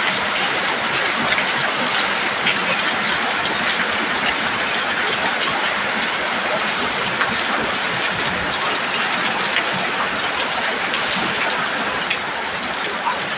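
Heavy rain falling steadily on a roof: a dense, even hiss with scattered sharper ticks of drops.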